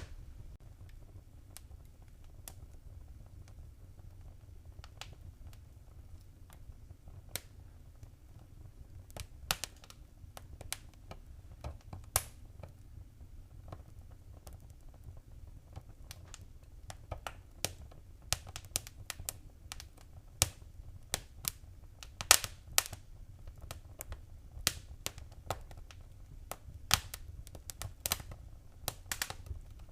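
Wood fire crackling in a fireplace: irregular sharp pops and snaps, sparse at first and more frequent from about halfway, over a low steady rumble.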